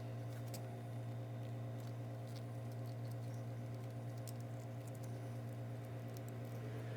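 Faint scattered small clicks and crinkles of a tube of rubber cement being squeezed out, over a steady low hum.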